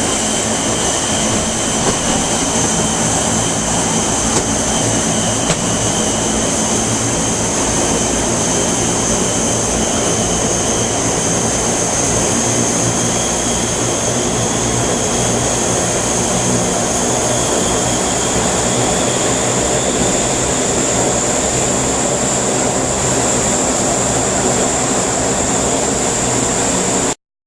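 Aircraft engines running steadily, a dense rumbling noise with a high turbine whine that rises slowly in pitch, cutting off abruptly near the end.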